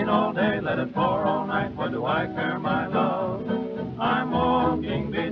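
1928 dance-orchestra record playing a busy melodic passage with wavering, vibrato-laden notes over the band's rhythm, leading toward the vocal chorus.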